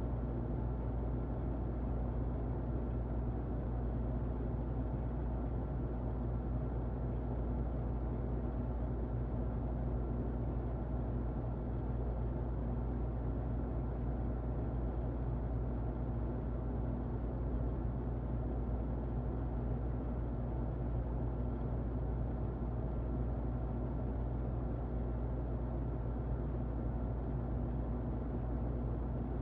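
Muffled electric fan running steadily: an even, low-heavy rushing noise with a faint hum, unchanging throughout.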